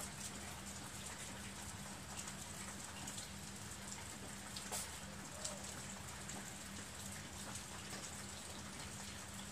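Steady rain falling, with scattered drops ticking close by, over a faint low steady hum.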